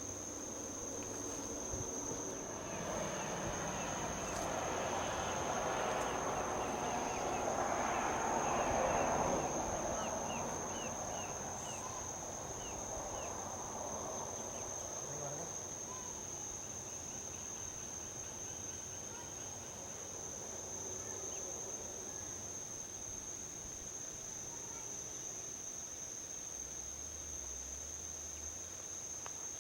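Crickets trill steadily on one high pitch, while a vehicle passes on the highway: a rushing sound that builds from about two seconds in, is loudest around nine seconds and fades away by about fourteen seconds. A few short chirps come just after the peak.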